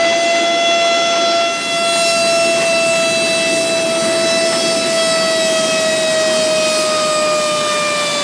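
A loud, steady high whine on one pitch with overtones, slowly falling in pitch.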